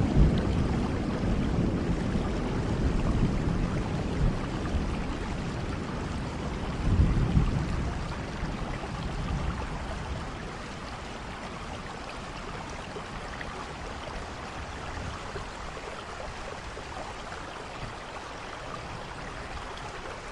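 Steady rainfall with low rumbles of thunder, the strongest about seven seconds in. The rain then settles to a quieter, even hiss.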